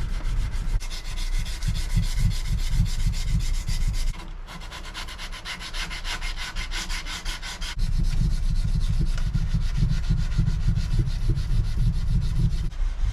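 220-grit sandpaper rubbed back and forth over a knife guard in rapid, even strokes. The sound changes abruptly about four and eight seconds in.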